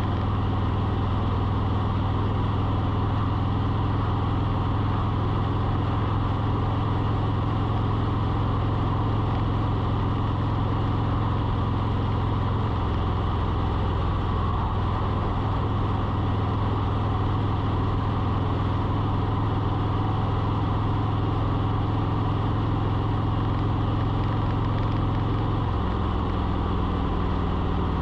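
A steady low engine hum, like an idling motor, whose pitch shifts slightly about halfway through and again near the end.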